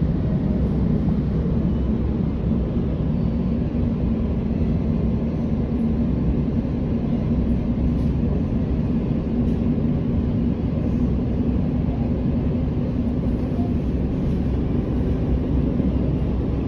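Train running at speed: a steady low rumble with a faint constant hum.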